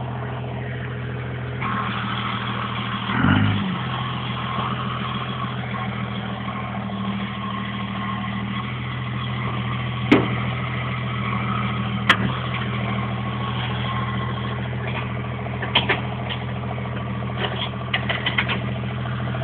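Truck engine idling steadily, with a brief low surge about three seconds in and a few sharp clicks or knocks later on.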